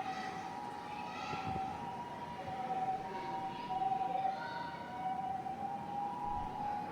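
Emergency vehicle siren sounding a two-tone call, switching back and forth between a higher and a lower note, with a second tone sliding down and back up beneath it.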